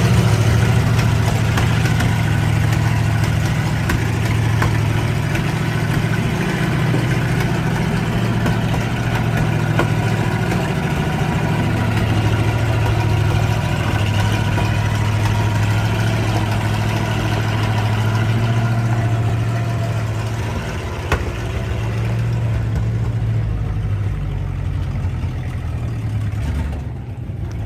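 1955 Ford grain truck's engine running steadily.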